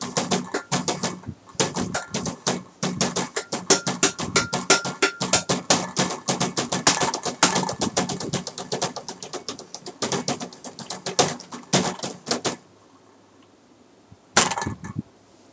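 Fast improvised percussion of taps and clicks on hard everyday objects, much of it sounding like typing on a computer keyboard. It stops about twelve and a half seconds in, and one short clatter follows near the end.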